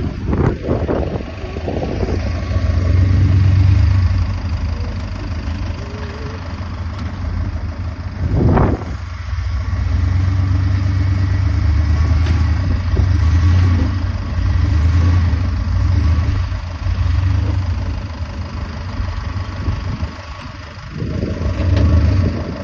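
A motor vehicle running, with a steady low rumble.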